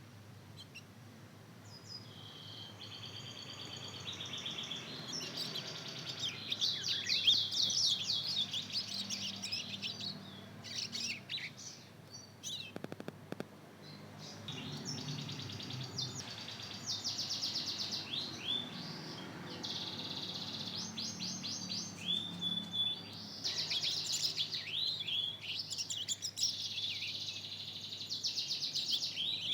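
Young mozken, a yellow-fronted canary × domestic canary hybrid about two months old, twittering its practice song: rapid high chirps, trills and short warbled phrases, the rambling subsong of a fledgling learning to sing. The song pauses briefly about halfway through, with a few light clicks, then resumes.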